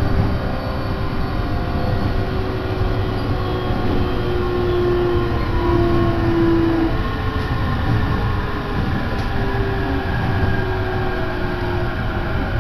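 Steady running noise heard from inside the carriage of a moving Jōban Line electric train: a continuous low rumble with a faint hum over it, slightly stronger a few seconds in.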